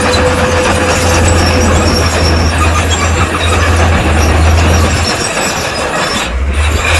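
Crawler bulldozer at work: its diesel engine drones steadily under the clatter and squeal of its steel tracks, with a thin high squeak over the first two seconds.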